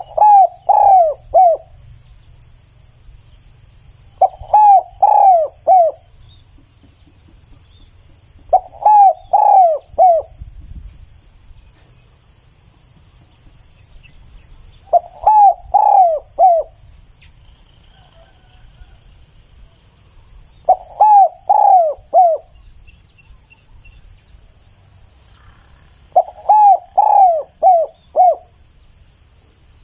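Spotted dove cooing: six short phrases of three to five coos each, repeated about every five seconds. A faint steady high insect trill runs underneath.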